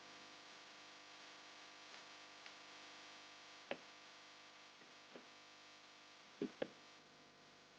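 Near silence with a faint steady hiss, broken by a handful of short soft clicks, two of them close together near the end.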